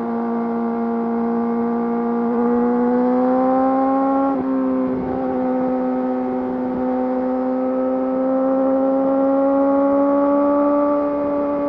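Yamaha YZF-R6's 599 cc inline-four running through an Akrapovič full exhaust system under steady acceleration, its pitch climbing slowly. About four seconds in the pitch dips briefly at a gear change, then climbs again and levels off near the end.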